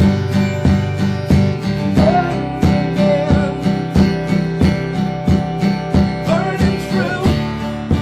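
Live band playing a song, led by strummed acoustic guitar on a steady beat of about three strokes a second, with a wavering melody line rising over it twice.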